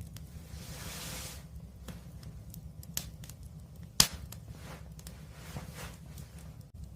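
Wood fire crackling, with scattered small pops and one sharp, loud pop about four seconds in, over a low steady rumble. A brief hiss comes about a second in.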